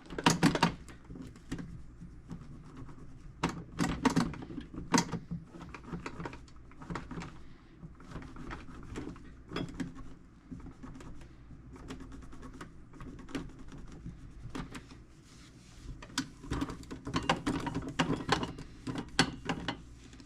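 Microfiber cloth wiping and buffing FW1 cleaning wax on a metal toolbox, in uneven spells of rubbing with sharp clicks and light taps, busiest near the start and end.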